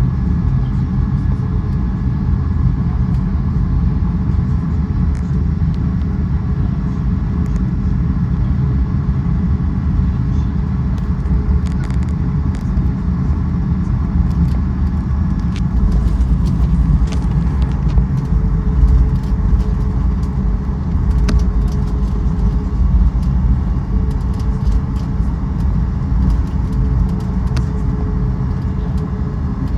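Steady low rumble of a vehicle in motion heard from inside, with faint steady tones over it and occasional light rattles and clicks.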